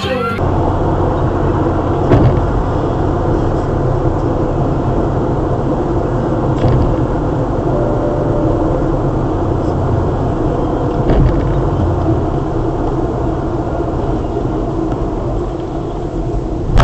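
Car on the move: steady engine and road rumble as picked up by a dashcam, with a few short faint knocks.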